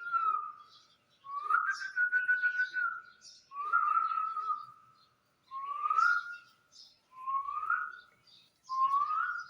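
Repeated whistles: about six notes, each sliding upward and held briefly, roughly one every one and a half seconds, with a breathy rasp over each.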